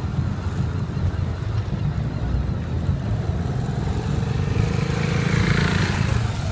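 Motorcycle engines running as riders warm up, over a steady low rumble. Near the end one bike's engine note rises and grows louder.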